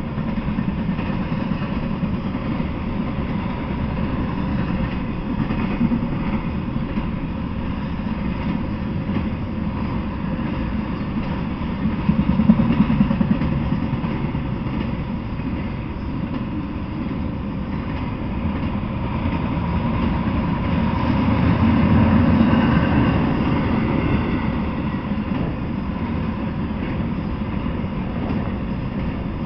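A freight train of flatcars carrying semi-trailers rolling past, making a steady low rumble of wheels on rails. A brief louder clatter comes about twelve seconds in, and the sound swells a little past twenty seconds.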